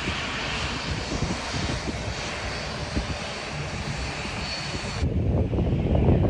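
TUI jet airliner's engines passing close by: a steady rush of noise with a faint high whine, which cuts off abruptly about five seconds in. Low wind buffeting on the microphone follows.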